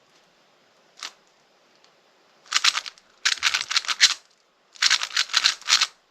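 Speedcube being turned fast by hand: a single click about a second in, then three bursts of rapid plastic clicks as move sequences are executed, the last about a second long.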